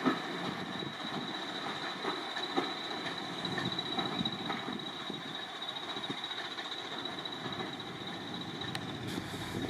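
A train running on the line, heard as a steady rolling noise of wheels on rail with scattered light clicks and a thin steady high tone.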